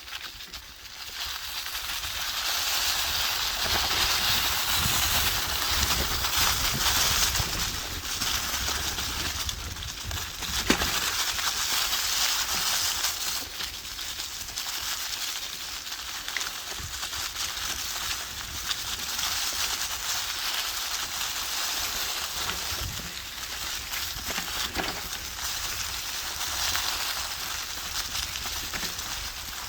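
Wind through forest leaves, rising and falling in gusts, with a low rumble of wind on the microphone and an occasional click.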